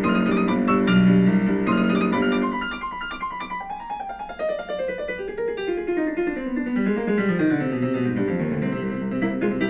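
Background piano music: chords, then quick runs of notes falling in pitch.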